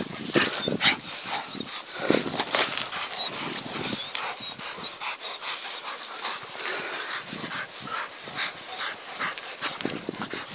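Shepherd dogs attacking a wild boar: dog noises with irregular short scuffles and knocks throughout.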